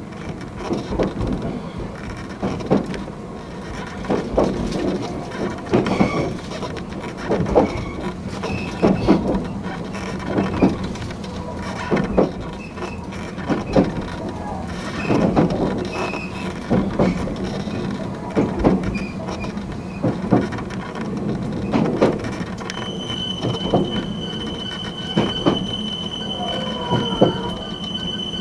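Fujikyu 8500-series electric train heard from inside the cab, running slowly, with its wheels knocking over rail joints about every second and a half. About three quarters of the way in, a steady high-pitched squeal sets in over the running noise.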